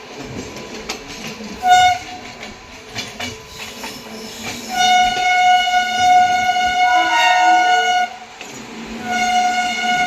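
Train horn sounding over the noise of a moving express train: a short toot about two seconds in, then a long blast of about three seconds, then another long blast starting near the end.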